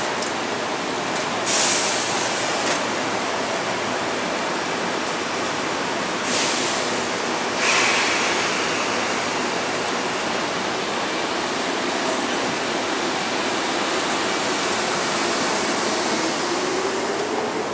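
Metro-North electric commuter train at a station platform: a steady rushing noise with two brief hisses of air, then a whine rising slowly in pitch near the end as the train pulls away.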